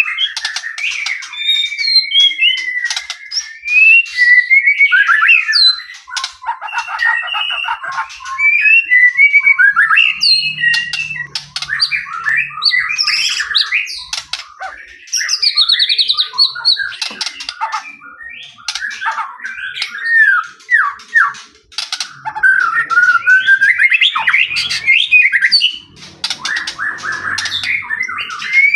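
White-rumped shama singing nonstop: a long, varied run of loud whistles, fast trills and harsh chattering phrases with hardly a pause.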